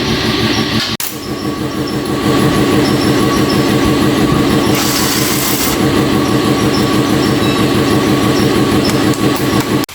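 A loud machine running with a fast, even rattle. It breaks off abruptly about a second in and resumes.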